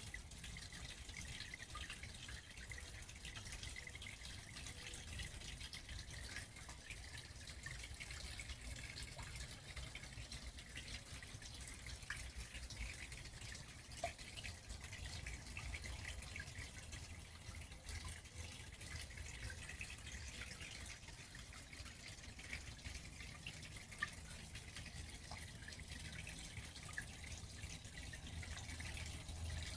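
Garden pond water feature: water trickling and dripping steadily into the pond, a faint even splashing made of many small irregular drops.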